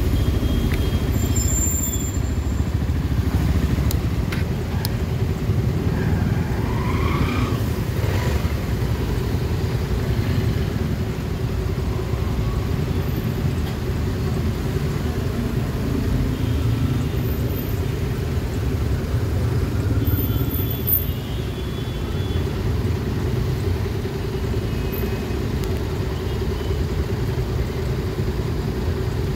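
Steady low rumble of engines in slow, jammed road traffic, heard from a motorcycle.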